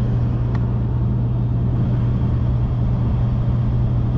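Vehicle engine idling: a steady low drone with no change in pitch or level.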